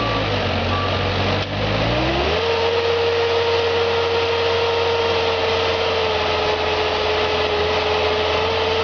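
Moffett truck-mounted forklift's engine running, with one short reversing beep about a second in. Just after two seconds in, the engine note rises and then holds at a steady higher pitch as it is revved up to drive the machine.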